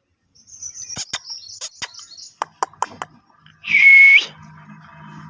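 Young Indian ringneck parrot chirping high and thin among several sharp clicks, then giving one loud, steady whistle note about half a second long.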